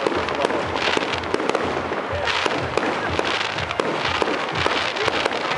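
Aerial fireworks going off: a dense, steady run of sharp crackles and pops from glittering shells bursting, swelling louder about two seconds in and again near the end.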